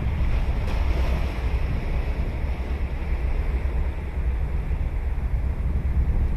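Ocean surf washing onto a sandy beach, with a wave breaking about a second in, under a steady low rumble of wind on the microphone.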